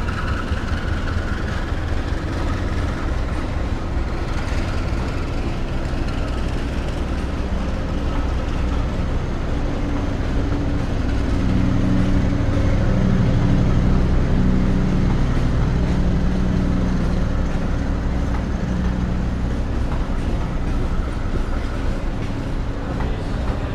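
A passenger train of coaches running past on a neighbouring track, its wheels rolling on the rails, over a steady low diesel-engine rumble. The sound grows a little louder about halfway through, with a humming engine note, then eases off.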